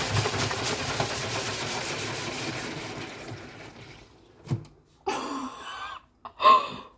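Vestel washing machine's drum spinning with its door open, water churning and spraying out, the noise dying away over about four seconds as the drum slows; then a thump and a few short splashy bursts near the end.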